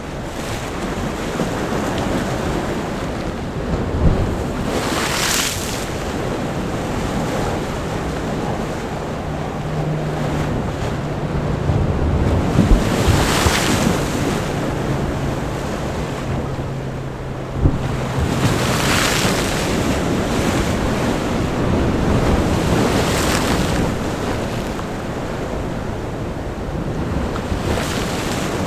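Sea waves breaking on a rocky shore, a steady rush of surf with four hissing bursts of spray as waves strike the rocks, and a few low thuds. Through the middle, a steady low engine hum of passing road traffic sits under the surf.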